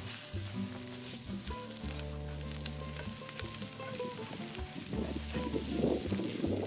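Eggs, mushrooms and peppers sizzling in a cast-iron skillet while a spatula stirs and scrapes the pan, the scraping thicker from about five seconds in. Background music plays underneath.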